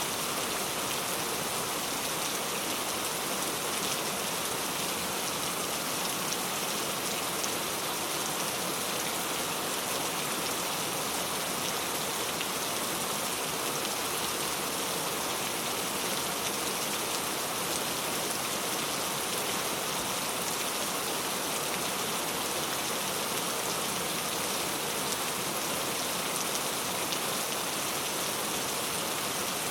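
Steady rain falling, an even patter of drops on a surface with no letup.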